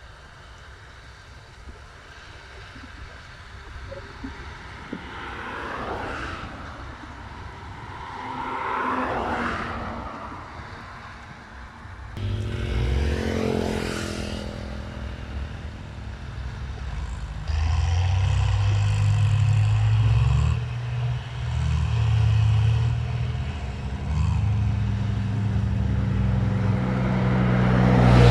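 A Hino diesel engine in a Ford tractor, first faint, then loud from about twelve seconds in. Its low steady note steps up and changes pitch several times as the throttle changes.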